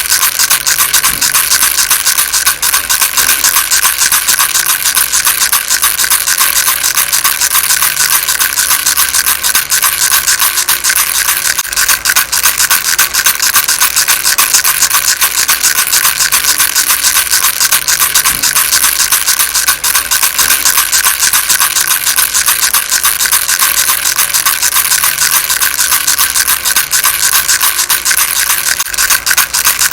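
Baby rattle shaken steadily and without pause, making a dense, even rattling.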